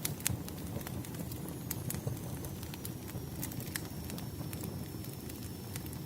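Wood fire burning: irregular sharp pops and snaps over a steady low rumble of the flames, with a faint thin high whistle from about a second and a half in.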